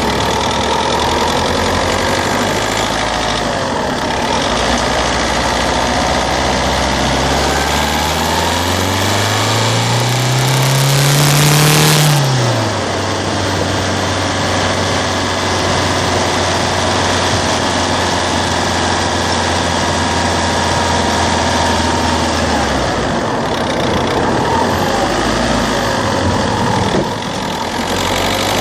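Citroen C3's 1.4 HDi DV4TD four-cylinder turbodiesel running steadily. About eight seconds in, it climbs in revs for about four seconds with a rush of hiss, then drops sharply back and settles into a steady drone again.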